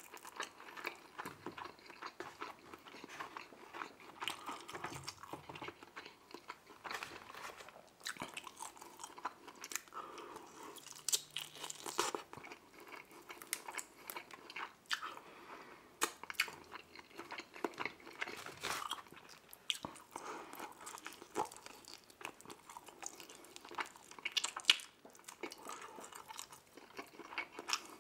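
Close-miked eating sounds: a man biting and chewing buffalo chicken wings held in his hands, with many short, irregular mouth clicks.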